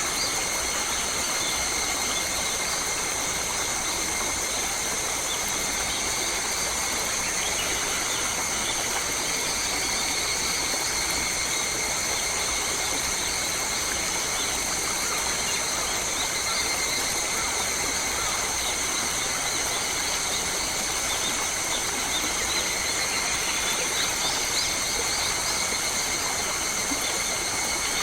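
Forest ambience: a steady, high-pitched drone over an even hiss, with a few faint bird chirps, most of them near the end.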